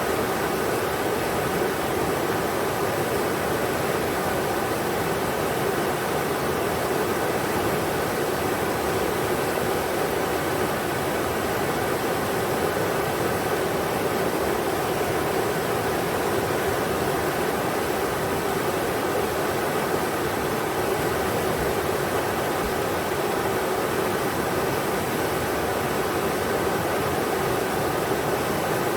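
River water rushing over rocks in a steady, unbroken roar of white noise, with no changes in level.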